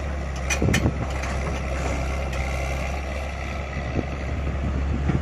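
Heavy diesel engine of an earthmoving machine running steadily, with a few sharp knocks from the machine's working gear about half a second in, again around four seconds, and near the end.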